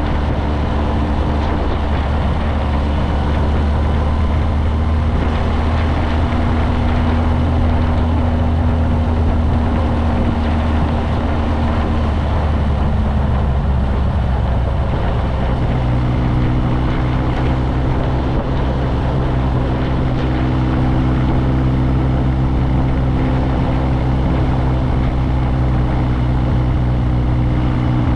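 Motorcycle engine running steadily under riding noise. About halfway through, the engine note steps up to a higher pitch and holds there.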